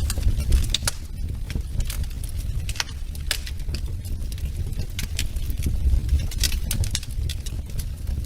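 Wood fire crackling in a fireplace: irregular sharp pops and snaps, many each second, over a steady low rumble.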